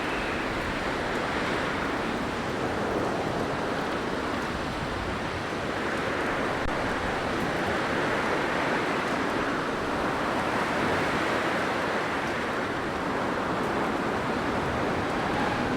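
Blizzard wind blowing steadily, a dense rushing noise that swells and eases slowly every few seconds.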